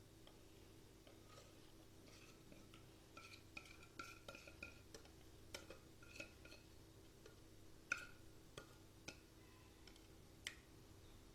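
Faint, scattered clinks and taps of kitchen utensils against a bowl and metal cake mould while cake batter is poured in, with a few short ringing pings in the middle.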